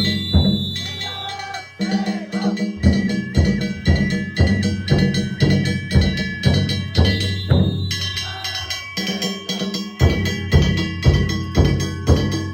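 Danjiri festival music (narimono): a taiko drum and small hand gongs (kane) beaten in a fast, steady rhythm of about three to four strokes a second, the metal ringing on over the beat. The deep drum strokes thin out twice, then come back.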